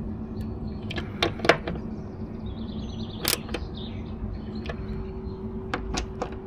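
A few scattered sharp clicks and knocks of hand tools and small metal parts being fitted and tightened, over a steady low hum that gains a second, higher steady tone near the end.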